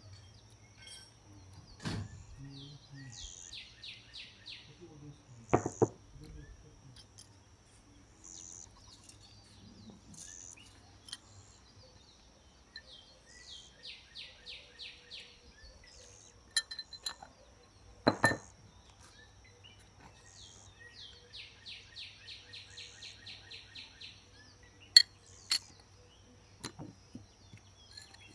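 A bird sings a trill of rapidly repeated high notes three times, over a thin steady high tone. A few sharp knocks and clinks fall in between, the loudest near the end.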